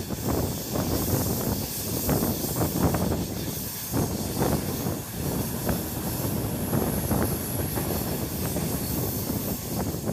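Express passenger train running along the track, heard from an open coach door: steady rumble with wheels clattering over the rails and wind rushing past.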